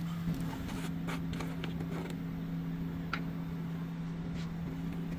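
Short scratchy strokes of the date being written on a filter's sticker, over a steady low hum.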